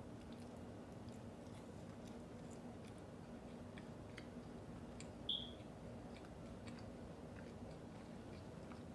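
Faint chewing of fast food, close up, with small scattered mouth clicks and crunches over a steady low hum. One brief high squeak a little past the middle is the loudest sound.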